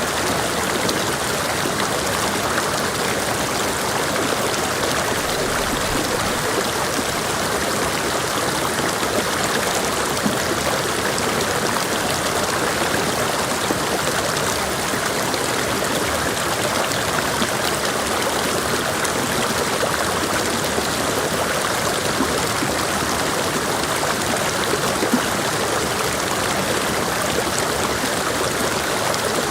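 Mountain stream flowing over rocks, a steady rush of water with small splashes and trickles.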